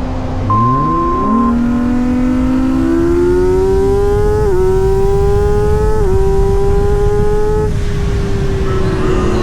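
Kawasaki ZX-6R 636 inline-four engine accelerating hard, its note climbing with two quick upshifts where the pitch dips briefly. Near the end the throttle closes and the revs fall away, over a steady rush of wind noise.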